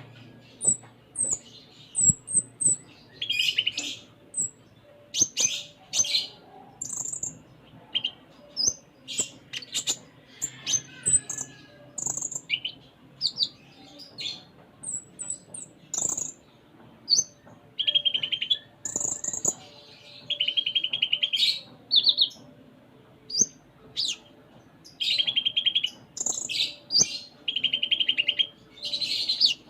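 A konin (kolibri ninja) sunbird singing continuously, a busy run of very high, sharp chirps and quick sweeping notes. From about halfway on it is broken up by several buzzy rattling trills of a second or so each, the 'isian' phrases learned from other birds.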